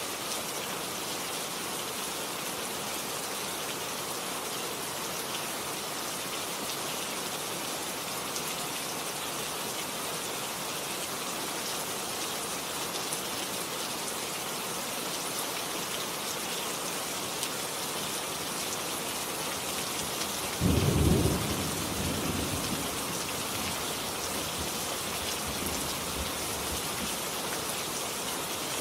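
Steady rain falling, with a single clap of thunder about two-thirds of the way in that rumbles and fades over a few seconds.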